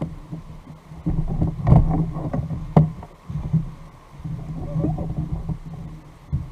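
Water sloshing and slapping against a fishing kayak's hull, with two sharp knocks, one just under two seconds in and one about a second later.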